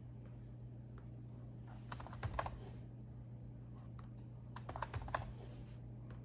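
Typing on a laptop keyboard: two short runs of quick keystrokes, one about two seconds in and another a little before the end, over a steady low hum.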